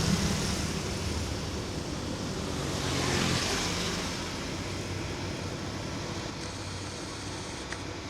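A truck engine labouring up a steep hill, close at first and swelling again about three seconds in, then fading to a fainter hum under road and wind noise.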